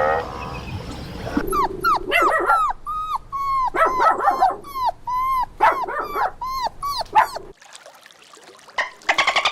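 Dog whimpering and yipping: a fast run of short, high-pitched cries, each rising then falling in pitch, lasting about six seconds before stopping. After a short lull, a rapid pulsing sound starts near the end.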